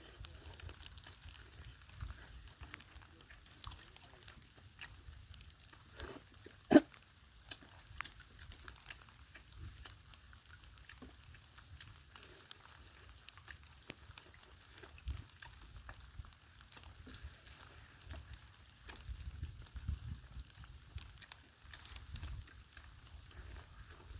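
Chewing and lip-smacking of a person eating fried seafood: scattered soft clicks and wet mouth sounds over a low rumble, with one brief louder sound about seven seconds in.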